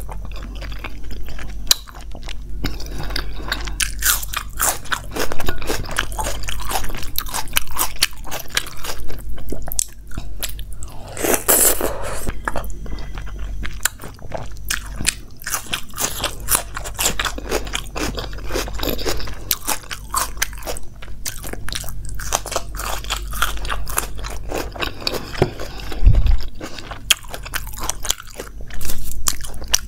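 A person chewing food right at a clip-on microphone, with frequent sharp crunches between softer chewing noises.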